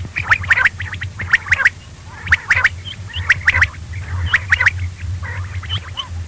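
Quail calling: a rapid series of short, sharp chirps and clicks, several a second, over a steady low hum.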